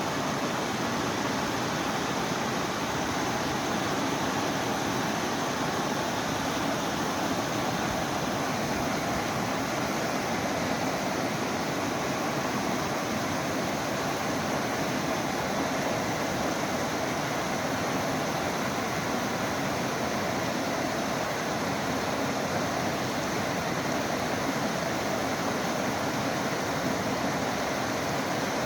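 Mountain stream water rushing in a steady, even wash with no breaks.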